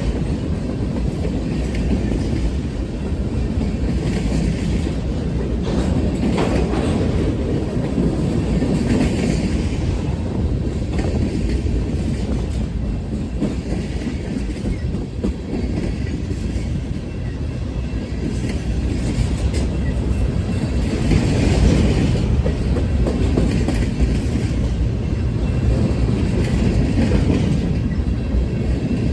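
A train rolling past with a steady, loud rumble of wheels on the rails, swelling every few seconds as cars go by.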